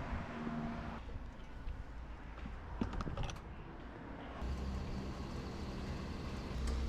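Yamaha R6 inline-four with a full Akrapovic exhaust running at low revs, fairly quiet, with a few light clicks about three seconds in. The engine note grows louder and steadier partway through.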